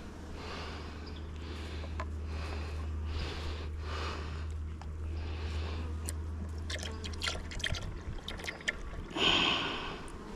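Beehive parts being handled and worked loose: a run of sharp clicks and scrapes in the second half, then a short, louder rustling burst about nine seconds in, over a low steady hum that stops near the two-thirds mark.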